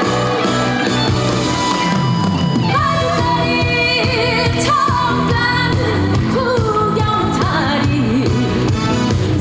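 A woman singing a trot song live over pop backing music, her held notes sliding between pitches with a wide vibrato.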